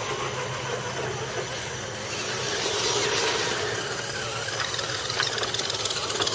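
Radio-controlled truck's motor and drivetrain whining, the pitch wandering up and down with the throttle.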